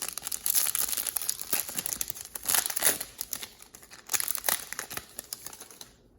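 A trading card pack's foil wrapper being torn open and crumpled in the hands: a dense run of crinkling and crackling that stops abruptly near the end.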